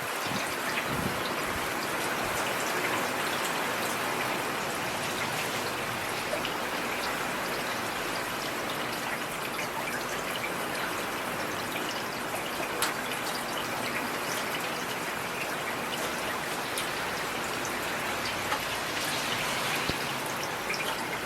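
Heavy rain falling steadily: an even hiss dotted with the small ticks of individual drops.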